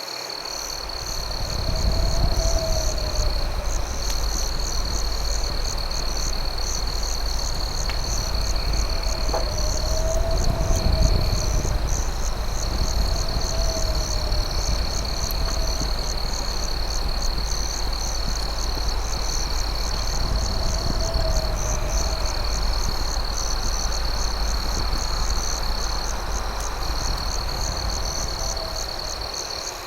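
Crickets trilling at night: one steady high trill with a faster pulsing chirp above it. A few faint short calls rise and fall, over a low rumble that swells in during the first two seconds and eases off near the end.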